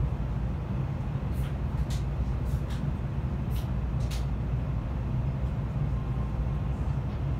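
Cabin noise inside an N700A Shinkansen car under way: a steady low rumble from the running train, with a handful of short sharp clicks in the first few seconds.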